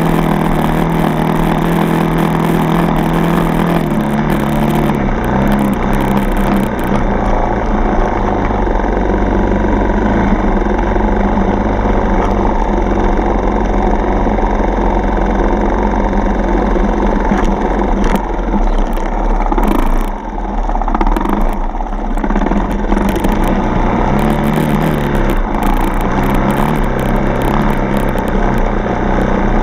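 Single-cylinder four-stroke dirt bike engine running while riding, its pitch shifting up and down in steps with throttle and gear changes. The revs drop briefly about twenty seconds in.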